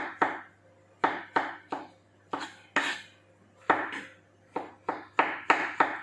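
Kitchen knife slicing mushrooms thinly, each cut striking the cutting board: sharp knocks in uneven runs of two to four, with short pauses between runs.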